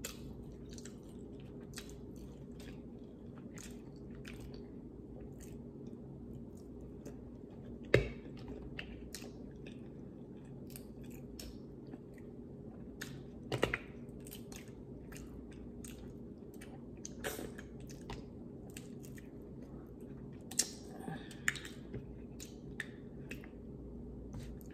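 Close-up eating sounds of a seafood boil mukbang: chewing and wet mouth sounds, with scattered sharp clicks and cracks as crab-leg shells are picked apart by hand. The loudest cracks come about eight seconds in and again around fourteen seconds, over a steady low hum.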